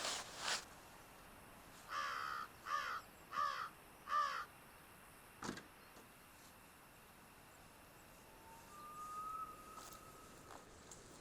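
A crow cawing four times in a quick, even series of hoarse calls, followed a little later by a single sharp click.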